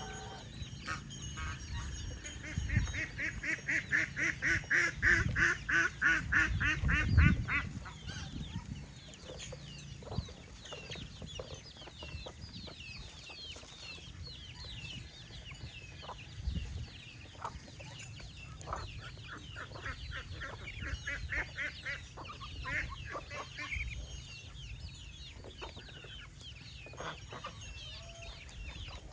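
Domestic poultry calling: a loud, fast run of evenly repeated calls for the first several seconds, then quieter high peeping and clucking with a few short knocks.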